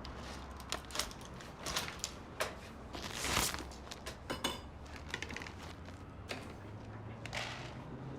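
Scattered small knocks, clicks and clatters of objects being handled in a room, with a longer rustle about three seconds in, over a low steady hum.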